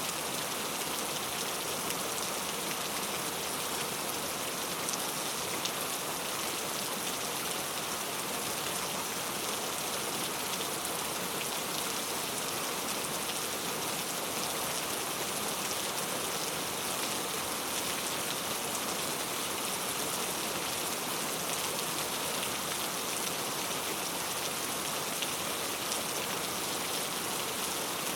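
Steady rain falling: an even, unbroken hiss of many drops pattering on a surface.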